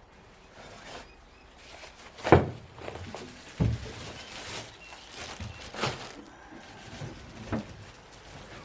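Gear being handled and moved about in a boat: four separate dull knocks and thumps, the loudest about two seconds in, with quieter handling noise between them.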